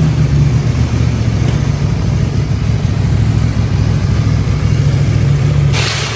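An engine running steadily at an even, low pitch, with no big revs.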